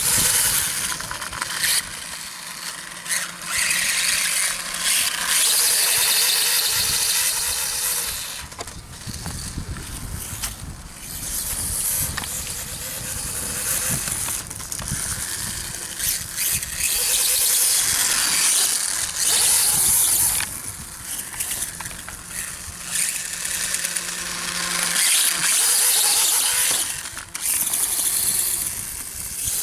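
An electric RC dirt bike running: a high-pitched motor whine and hiss that surges and eases every few seconds as the throttle is worked.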